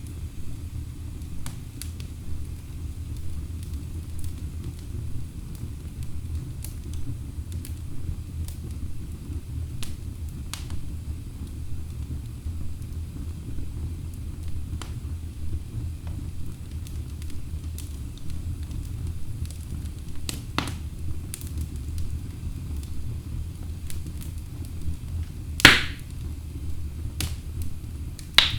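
Wood logs burning in a fireplace: a steady low rumble of flames with scattered crackles throughout, and two loud sharp pops near the end.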